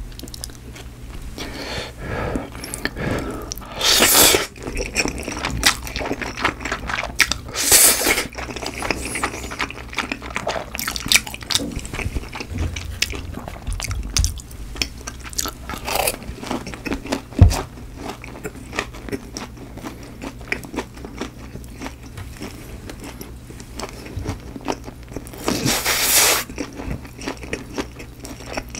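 Close-miked eating: crunching bites of boneless fried chicken and chewing, with many small clicks of the mouth. There are a few louder bursts about four, eight and twenty-six seconds in.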